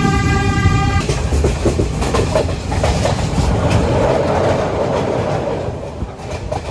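Passenger train running, a loud rumble with wheels clacking over rail joints; its horn is sounding at the start and stops about a second in.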